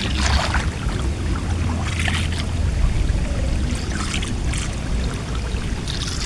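Water splashing in short bursts about every two seconds, over a steady low rumble.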